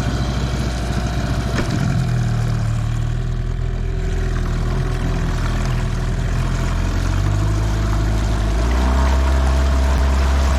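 Tarpon 9.9 hp outboard motor running, its engine note changing speed about two seconds in and again near the end.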